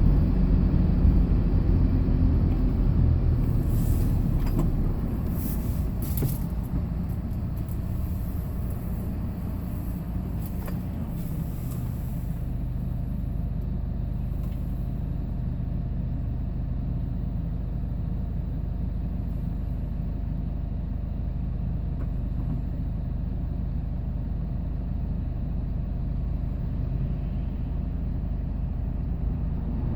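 Hyundai Porter II box truck's engine and road noise while driving: louder and rougher for about the first twelve seconds, then settling to a steadier, quieter engine hum.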